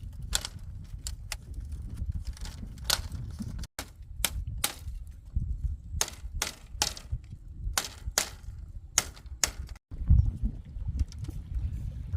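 Repeated sharp blows of a hand tool on wood, irregular and a fraction of a second apart, over a low rumble. The sound drops out abruptly twice.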